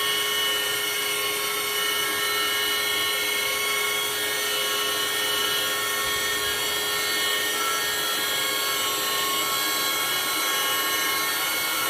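A steady machine whine over a hiss: several fixed tones held without change, like a small motor running at constant speed.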